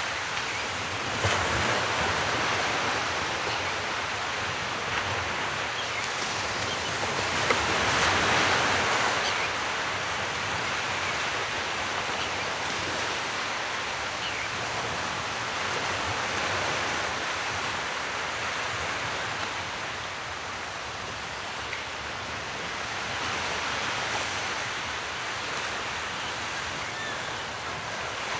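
Sea waves washing ashore, a steady rush of surf that swells and ebbs slowly, with the biggest swell about a quarter of the way in.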